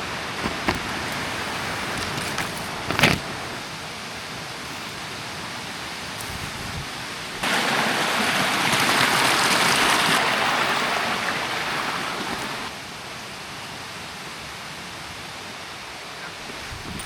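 Steady rushing noise of water, with a sharp knock about three seconds in. About seven seconds in the noise jumps suddenly louder for about five seconds, then drops back.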